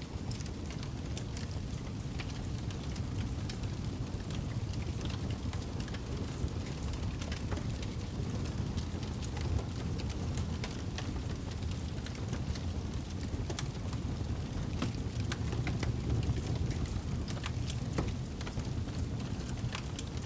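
Campfire burning: a steady low rush of flames with frequent scattered crackles and sharp pops from the burning wood.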